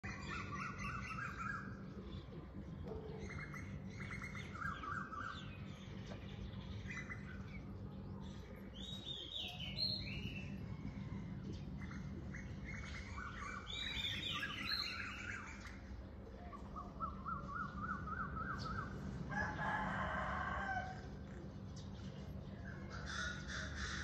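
Several birds chirping and trilling, short calls repeating and overlapping, over a steady low hum. A louder, longer call comes about twenty seconds in.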